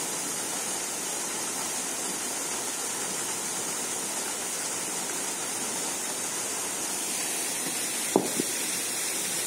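Small waterfall splashing into a pool, a steady rushing hiss of falling water. A brief sharp sound breaks in once, about eight seconds in.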